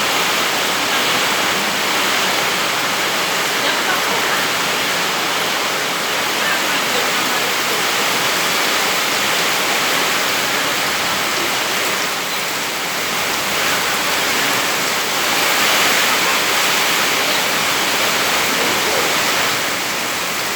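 Heavy rain falling in strong wind: a loud, dense, steady hiss that eases a little about twelve seconds in and swells again a few seconds later.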